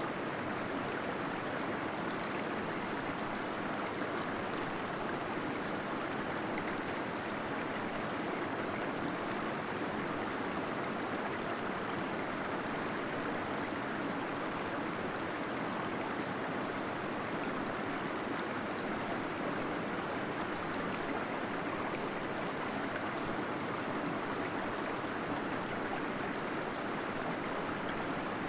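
Small waterfall flowing steadily in a cave, a constant, even rush of falling water.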